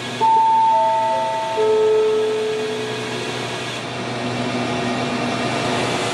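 Station public-address chime: four descending notes that ring on and fade, sounding right after a platform announcement ends. A steady hum lies underneath.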